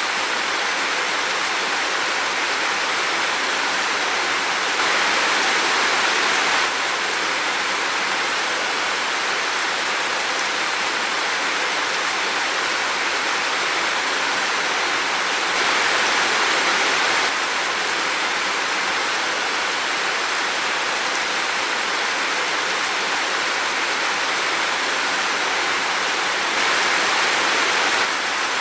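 Heavy rain falling in a steady hiss, swelling briefly louder three times at even intervals.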